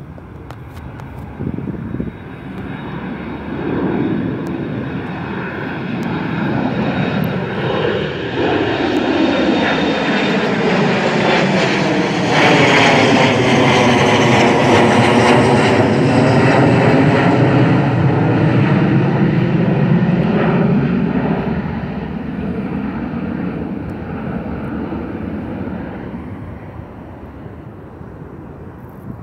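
Departing airliner's engines passing close by on climb-out: the noise swells, is loudest for several seconds past the middle, with a whooshing that sweeps down and back up in pitch, then fades.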